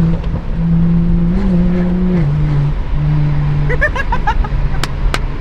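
Car engine droning steadily while driving, its pitch stepping up and down several times, with a few sharp clicks near the end.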